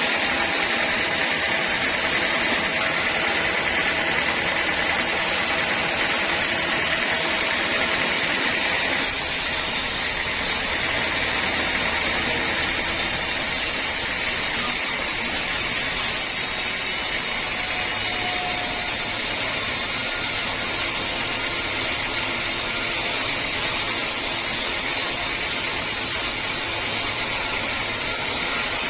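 Sawmill saw running steadily through teak, a constant loud machine hiss that brightens and drops slightly about nine seconds in.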